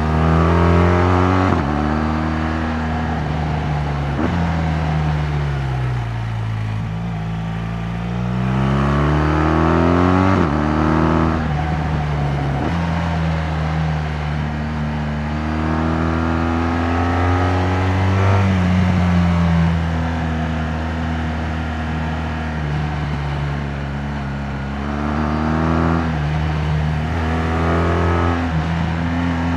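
BMW R 1200 GS Adventure's boxer-twin engine under way. The revs climb and drop back at a couple of gear changes, then fall away for a few seconds on a closed throttle. They pick up again through more shifts and hold at a fairly steady cruise, with a few more gear changes near the end.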